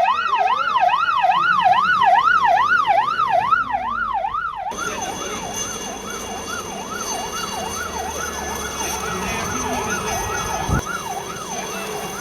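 Emergency vehicle siren wailing rapidly, its pitch rising and falling about twice a second. About five seconds in, it suddenly becomes fainter over a haze of background noise, and a single thump comes near the end.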